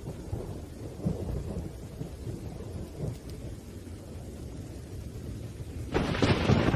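Thunderstorm: low thunder rumbling over falling rain. About six seconds in, a sudden louder, sharper crack of thunder breaks.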